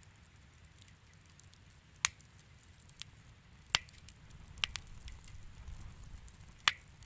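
Wood fire in a fireplace crackling, with five sharp pops standing out over faint ticking: one about two seconds in, two more in quick succession just before the middle, and a loud one near the end, all over a low steady rumble.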